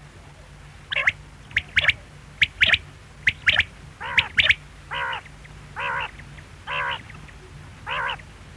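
Quail calling: a run of short, sharp notes, mostly in pairs, then four longer, harsher notes about a second apart.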